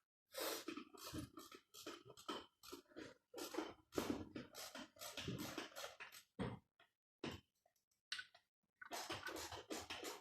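Irregular handling noise: quick scrapes, clicks and rustles in uneven runs, with a short pause about seven and a half seconds in.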